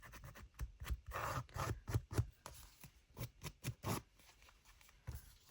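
Scissor blades scraped in short, irregular strokes along the edge of a thick card to distress it, with a brief pause near the end.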